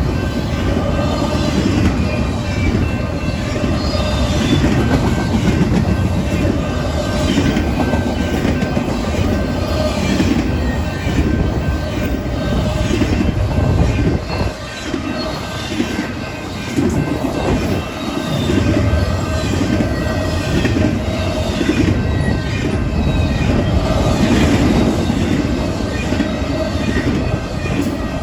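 Freight train cars rolling past at speed: a steady rumble with irregular clacking of wheels over the rail, and a thin steady squeal from the wheels running underneath. The sound eases briefly about halfway through.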